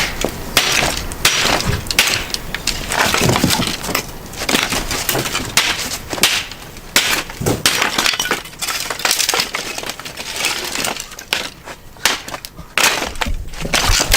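Dry sticks and kindling being snapped and broken by hand and foot for a wood fire: an irregular run of sharp cracks and crunches.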